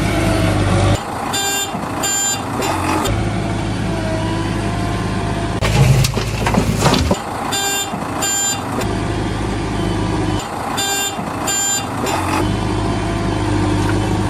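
Heavy vehicle engine running steadily, with pairs of short, high beeps three times, like a truck's reversing or warning beeper.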